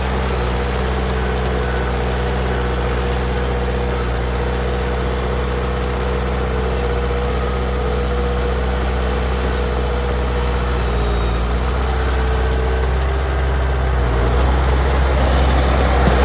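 Bulldozer's diesel engine running steadily with a deep rumble, getting a little louder near the end.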